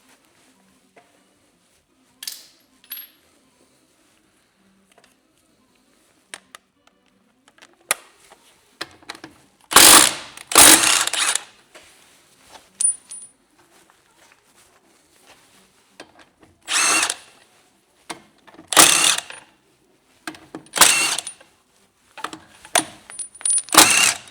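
Several short bursts of a power tool, each under a second to about a second long, with light metallic clinks in the quiet gaps between them.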